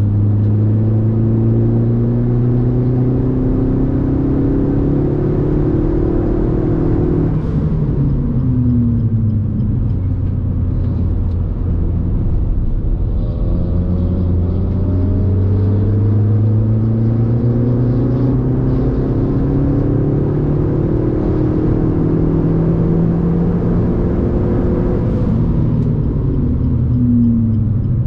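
The Suzuki Swift Sport's 1.4-litre turbocharged K14C Boosterjet four-cylinder, fitted with a Ragazzon exhaust, pulling hard on track and heard from inside the cabin. Its note climbs slowly for several seconds at a time and drops away twice, about eight seconds in and near the end, over steady tyre and road noise.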